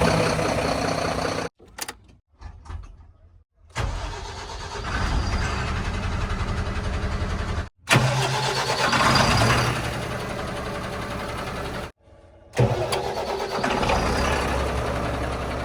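Heavy diesel engines running, heard in several short clips cut together abruptly, with brief gaps between them.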